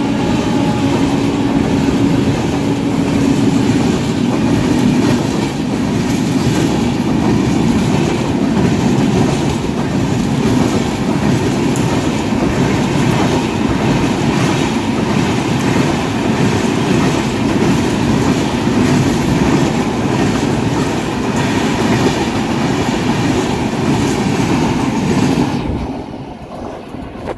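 Indian Railways passenger train behind a WAP-7 electric locomotive passing at speed, its coach wheels clattering steadily over the rail joints. The noise falls away suddenly near the end as the last coach goes by.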